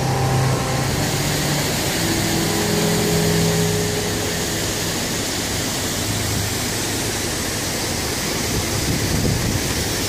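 Canal boat's engine running with a steady low hum under a broad, even rushing noise; the hum softens a few seconds in.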